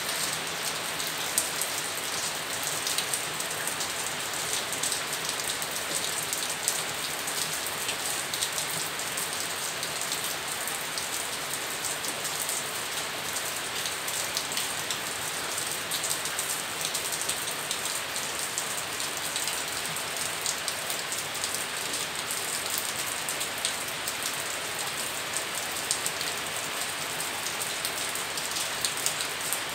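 Steady rain falling, a constant hiss of rainfall dotted with many separate drop ticks and a few louder single drips.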